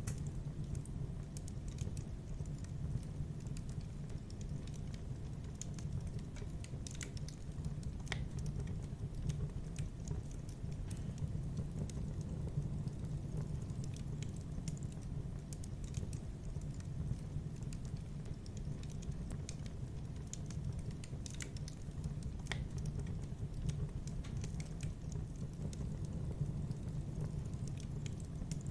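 Wood fire in a fireplace crackling, with scattered sharp pops and snaps at irregular intervals over a steady low rumble of burning.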